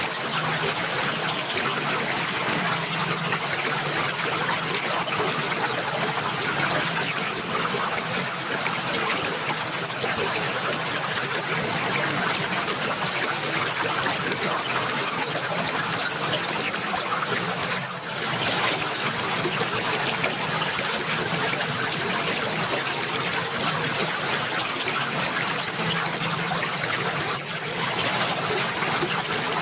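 Running water trickling steadily, an even flowing wash that dips briefly twice.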